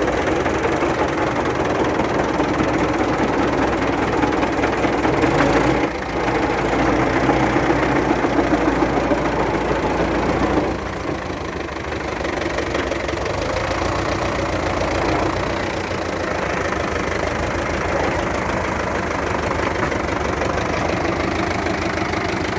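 MTZ tractor's diesel engine running with a knocking from the gearbox. There is a brief break about six seconds in, and the sound gets quieter around eleven seconds in.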